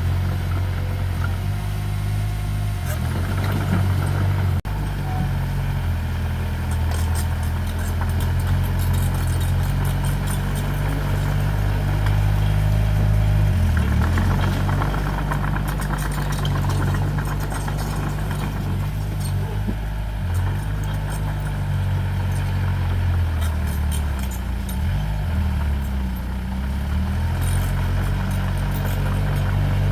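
Heavy-equipment diesel engine running steadily, its pitch dropping and rising again briefly about midway and several times near the end as the load or throttle changes.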